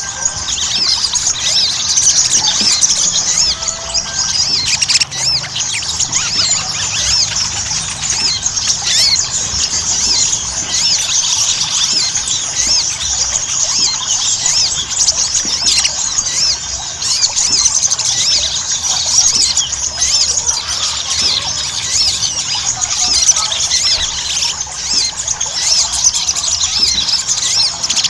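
Little spiderhunter (sogon) in full, energetic song: a dense, unbroken stream of rapid, high, sharp chirps.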